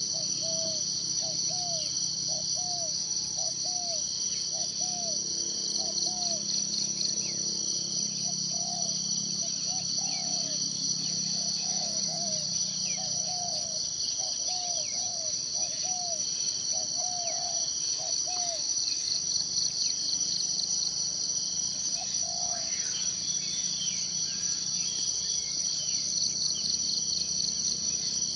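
A steady, high-pitched, pulsing chorus of forest insects, with an animal's short low calls repeated about twice a second for most of the first two-thirds. A few higher bird chirps come in near the end.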